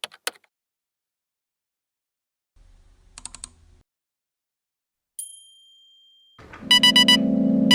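A few faint clicks, then a single high ding about five seconds in that rings and fades. Near the end, music with synthesizer chords and a quick ticking beat starts.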